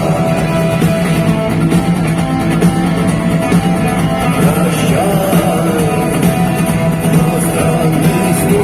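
Live rock band playing in a large arena, with electric guitar and a sung vocal line over a steady, loud backing.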